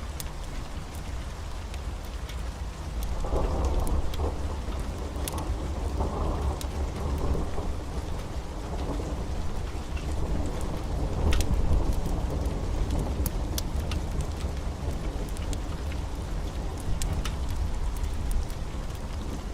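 Heavy rain falling steadily, with a roll of thunder that comes in about three seconds in and rumbles on, loudest near the middle.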